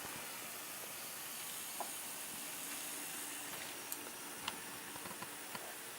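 Model train running on a layout under a steady hiss: a faint low motor hum for a couple of seconds in the middle, and a few light clicks.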